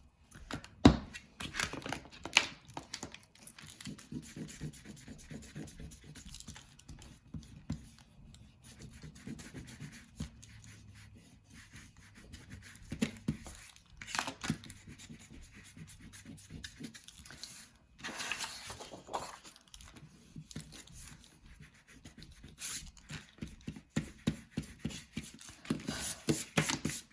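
Eraser rubbing over paper in irregular scratchy strokes, taking off pencil lines under a marker drawing, with a sharp knock about a second in.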